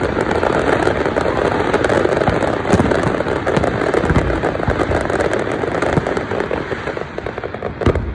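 Fireworks going off in rapid succession: a dense, continuous crackle of many small bangs with heavier booms mixed in, thinning slightly near the end before a few sharp pops.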